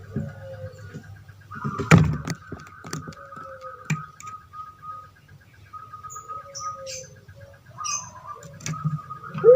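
Puter pelung doves (Streptopelia risoria) cooing in drawn-out falling notes over steady, finely pulsing high chirping from other birds. A sharp clatter comes about two seconds in.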